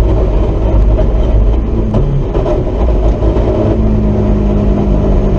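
Drift car engine running hard during a drift run, settling into a steady note about two seconds in.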